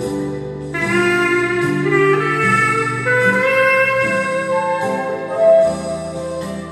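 A 13-key Weril clarinet playing a hymn melody in long held notes over a chordal backing accompaniment, the clarinet coming in strongly about a second in.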